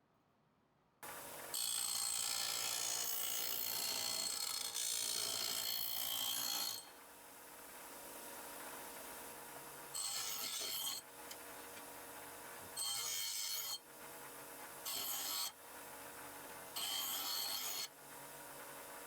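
Steel head of a splitting maul being rubbed with an abrasive: one long rasping pass of about five seconds, then four shorter passes of about a second each over a fainter steady rasp.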